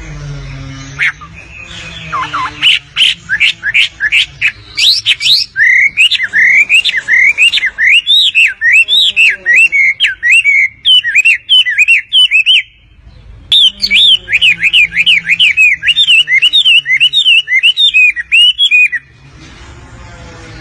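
Wambi bird singing a fast, unbroken string of sharp, high chirping notes, several notes a second, with a brief pause about two-thirds of the way through; singing in full voice.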